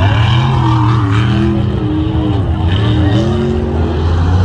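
Big off-road truck engine running loud, its pitch rising and falling as the throttle is worked up and down.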